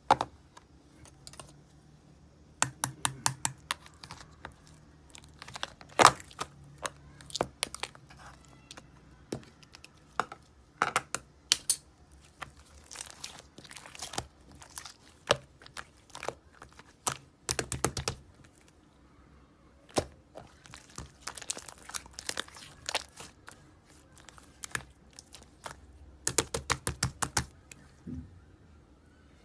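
Slime being squeezed and pressed by hand, giving runs of sharp clicks and pops with short pauses between.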